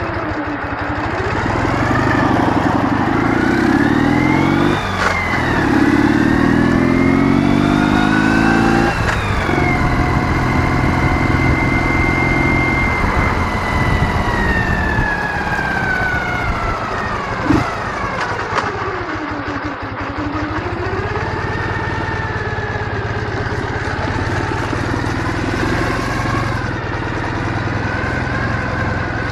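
Ural motorcycle's 650 cc flat-twin engine under way: it accelerates with rising pitch, breaks off for a gear change about 5 s in, climbs again, holds a steady cruise, then slows with falling pitch and settles back to a steady pace. A single sharp click about 17 seconds in.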